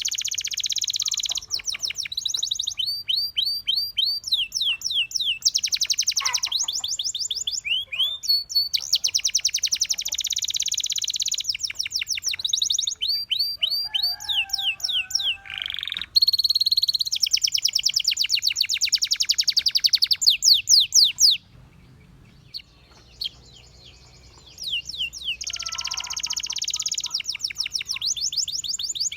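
Domestic canary singing: long, high-pitched phrases of fast trills and rapidly repeated sweeping notes, with a pause of about three seconds about three-quarters of the way through.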